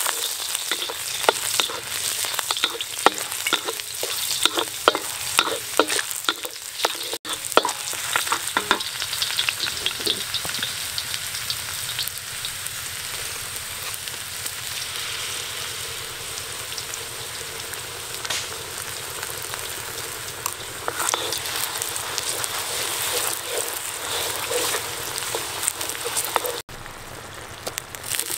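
Chopped garlic sizzling in hot oil in a wok, a wooden spatula knocking and scraping against the pan as it stirs, most often in the first third. Later a thick sauce goes in and the frying settles to a steadier sizzle and bubbling.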